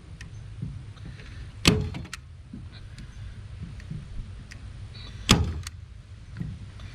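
Staple gun firing twice, two sharp snaps about three and a half seconds apart, driving staples through window screen into a wooden board, over a low steady hum.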